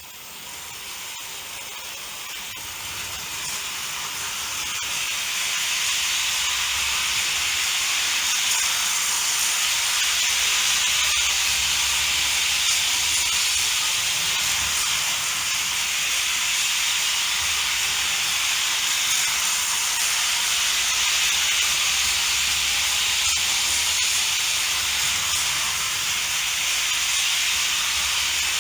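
Märklin HO model train (NS class 700 diesel switcher pulling freight wagons) running on C Track: a steady whirring hiss of the motor and metal wheels on the track, with an uneven low rumble. It grows louder over the first few seconds, then holds steady.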